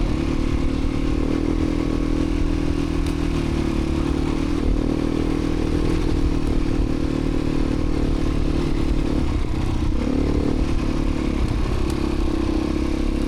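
Beta 350 RRS dirt bike's single-cylinder four-stroke engine running steadily under way, its pitch shifting slightly a few times.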